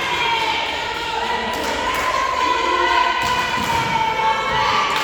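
A crowd of spectators shouting and chanting together in long, overlapping voices, with a few sharp thumps among them.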